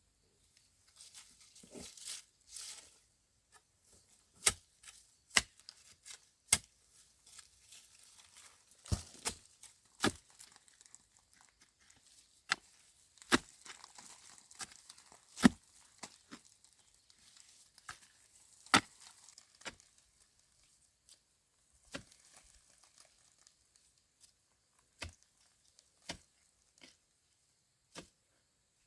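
Irregular sharp knocks and snaps, a few seconds apart, with short stretches of rustling.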